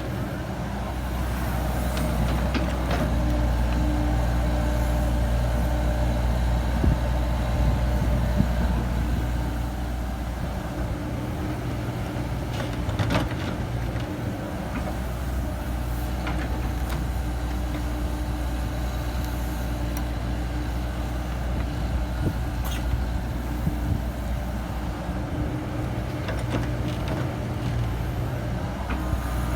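Komatsu PC70-8 excavator's diesel engine running steadily under work, with a few sharp knocks scattered through.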